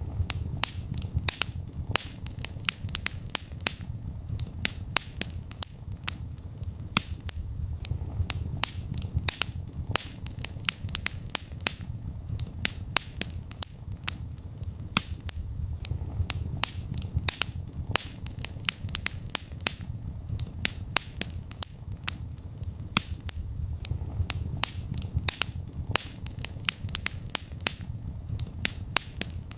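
Wood fire burning in a fireplace, crackling and popping constantly: many sharp irregular snaps every second over a steady low rumble of flames.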